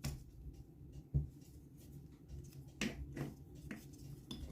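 A few light clicks and taps of small metal tools and parts being handled on a workbench while a moped engine is taken apart, the sharpest about a second in.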